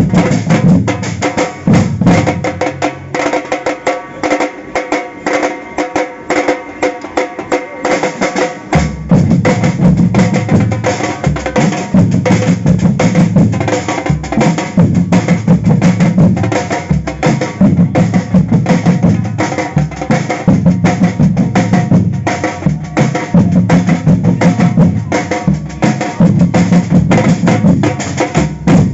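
Samba percussion band playing a fast, driving drum rhythm. The deep bass drums drop back for several seconds and come back in strongly about nine seconds in.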